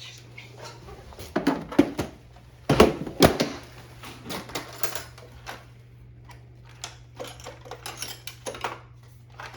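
Irregular clicks and knocks of hands working on a front-loading washing machine's door seal and its fittings, the loudest knocks coming about one and a half and three seconds in.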